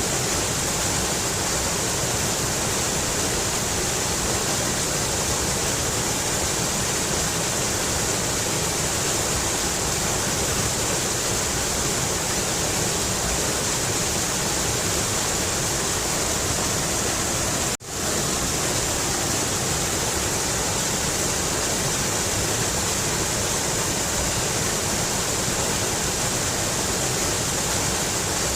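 Mountain river rushing in a steady, even wash of water noise. The sound cuts out for an instant about two-thirds of the way through, then carries on unchanged.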